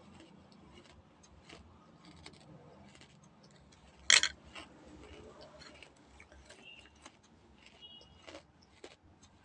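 Crunchy food being bitten and chewed close to the microphone: scattered small crackles, with one loud sharp crunch about four seconds in.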